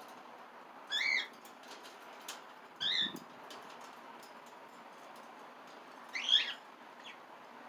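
Cockatiel giving three short calls, about a second, three seconds and six seconds in, the last one the loudest.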